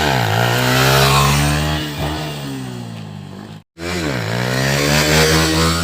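Motorcycle engine under way. Its revs dip and climb near the start, hold steady, then ease off. The sound cuts out briefly about two-thirds in, and the revs dip and climb again.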